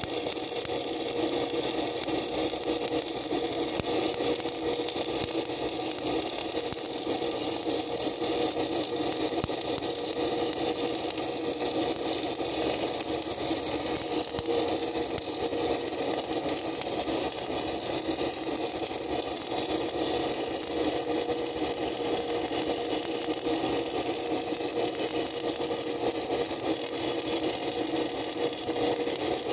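Stick (shielded metal arc) welding on steel: a steady, continuous arc crackle over a constant machine hum.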